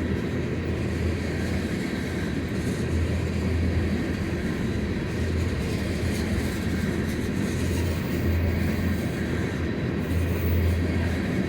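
Empty freight cars, boxcars and jumbo tank cars, rolling past on the rails with a steady rumble and a low throb that swells and fades every couple of seconds.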